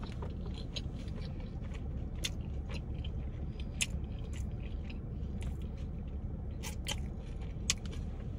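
A person chewing food close to the microphone, with scattered wet mouth clicks and smacks over a steady low hum.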